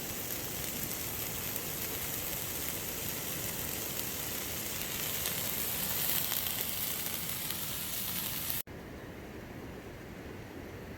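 Mixed peppers and chopped red onions sizzling steadily in a cast iron skillet over an open fire. The sizzle stops abruptly near the end, leaving a fainter steady hiss.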